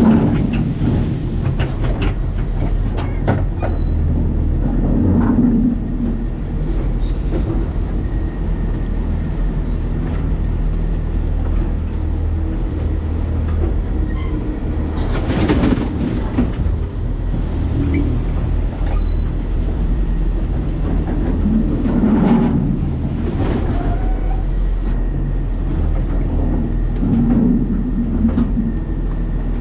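New Way Sidewinder side-loading garbage truck heard from inside its hopper: a steady low engine drone with constant metal rattling and repeated clanks. The loudest clanks come about halfway through and again a few seconds later.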